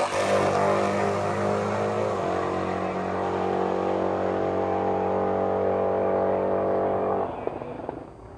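Two street cars at full throttle in a drag-strip roll race, their engines holding a steady high note as they run away down the track. The sound drops off sharply about seven seconds in.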